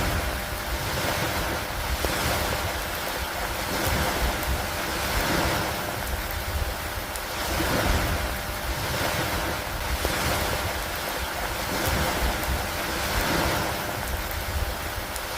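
Steady rain and wind-driven lake water, the wash swelling and easing every couple of seconds over a constant deep rumble.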